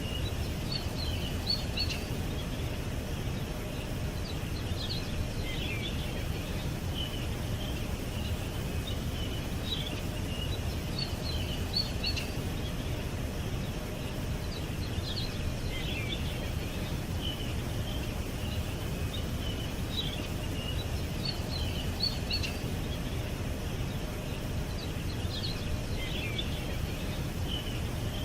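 Small birds chirping in short high phrases that come in clusters every few seconds, over a steady low background rumble.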